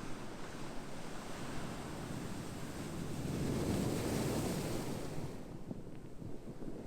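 Ocean surf: a wave washes in, swelling to a peak about four seconds in, then falls away to a softer wash.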